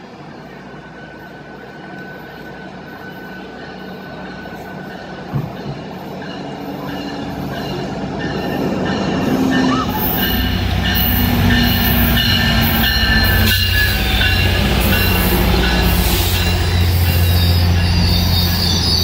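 GO Transit commuter train led by an MP40PH-3C diesel locomotive arriving at the platform, growing steadily louder as it approaches. From about ten seconds in, the locomotive's deep diesel drone dominates, with high squealing from the wheels and brakes as it slows.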